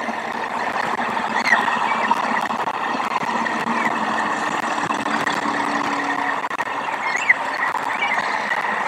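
Steady outdoor background noise around the nest, with a few short bird chirps scattered through it and a faint low engine-like hum in the middle.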